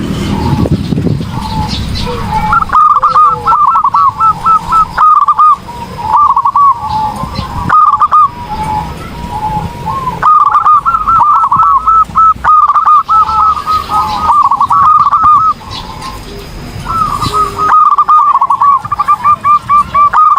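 Zebra dove (perkutut) cooing: rapid runs of rolling notes, repeated in phrases a second or two long with short pauses between them.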